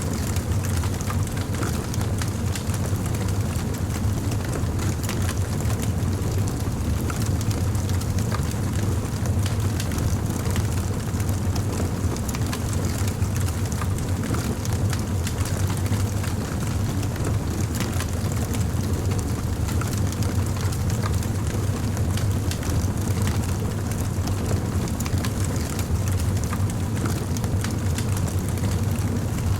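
Crackling fire: a dense run of small crackles and pops over a steady low rumble.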